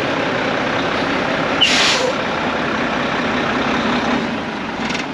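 Volvo diesel engine of a 2012 Volvo VNM42T day cab tractor idling steadily, with a short burst of air hiss from the truck's air system a little under two seconds in.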